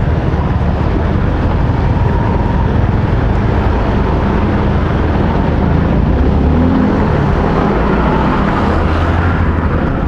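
Motorcycle engine running steadily while riding, over a haze of road noise, with the engine pitch shifting about two-thirds of the way through.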